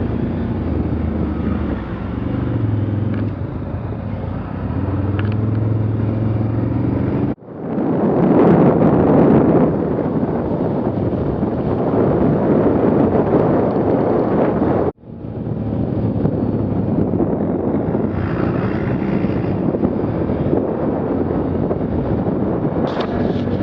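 Vehicle engine running under way, steady at first, then louder and rougher through the middle stretch. The sound breaks off abruptly twice.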